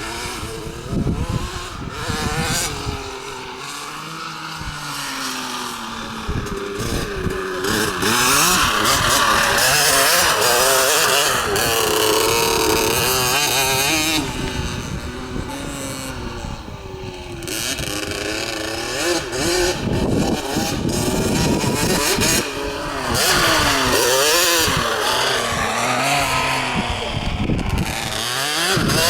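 LEM RX 65cc two-stroke motocross minibike ridden on a dirt track, its engine revving up and down over and over as the rider opens and closes the throttle. It grows louder about a quarter of the way in, falls back for a few seconds past the middle, then rises again.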